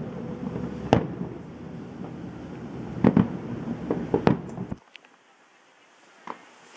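Aerial firework shells bursting: a sharp bang about a second in, then a cluster of several bangs around three to four seconds, over a low rumble that stops abruptly near five seconds. After that it is much quieter, with one faint pop.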